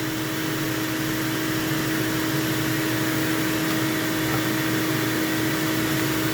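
Vacuum cleaner motor running steadily at full speed, a constant whine over a rushing of air.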